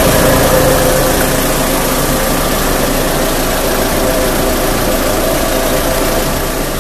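Car engine idling steadily, with a steady whine running through it.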